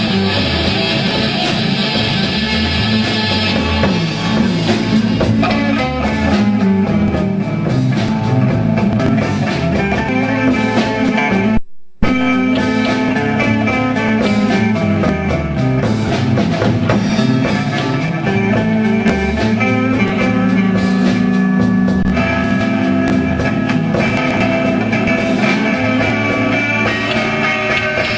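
Rock band playing live: strummed guitars over bass and drums. The sound drops out completely for a split second about twelve seconds in, a glitch in the damaged recording.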